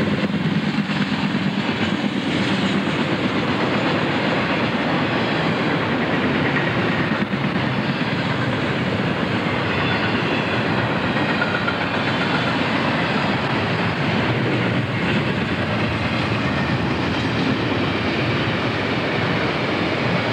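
Double-stack intermodal freight train passing, its container-laden well cars running steadily over the rails with a continuous wheel-and-rail noise.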